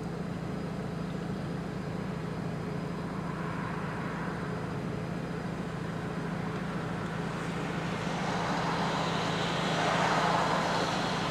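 Road traffic: a steady low hum with a vehicle going by, its noise swelling from about eight seconds in and peaking near the end.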